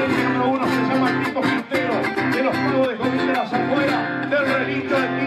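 Guitar music: strings strummed in a steady rhythm, with a picked melody above the strums.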